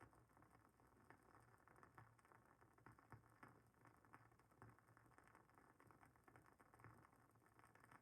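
Wooden wick of a WoodWick candle burning, crackling faintly with small irregular pops.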